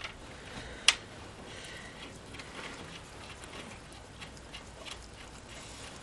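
Scattered light clicks and taps of tools and parts being handled, with one sharp click about a second in.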